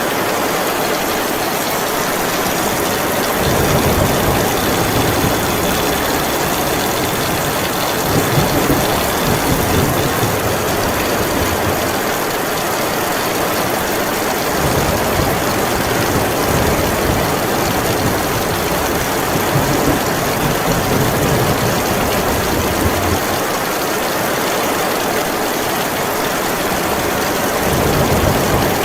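Heavy rain pouring steadily, with a low rumble swelling in about three seconds in, easing off about halfway through, and building again near the end.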